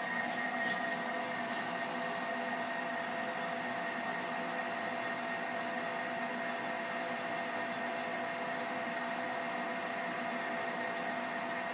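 Haas TL2 CNC lathe running with a steady electric whine made of several unchanging tones. A few faint ticks come about a second in.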